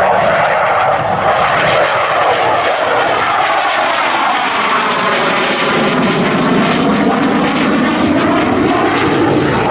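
Dassault Super Étendard jets flying past, the loud, steady rush of their SNECMA Atar turbojets, with a tone that slowly sweeps down and back up as they pass.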